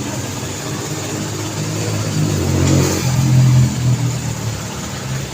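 Road traffic noise, with one motor vehicle's engine swelling up and passing close by, loudest about three seconds in, then fading back into the steady hum of traffic.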